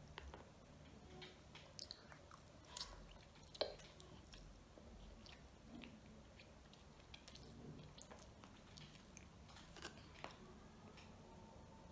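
Quiet eating sounds of a child eating ramen noodles: soft chewing and small mouth clicks, with one sharper click about three and a half seconds in.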